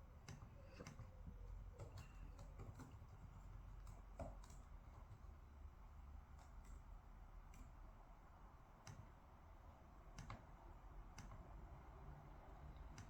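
Faint, scattered clicks and taps from quiet desk work, about one a second at irregular intervals, over a low steady room hum.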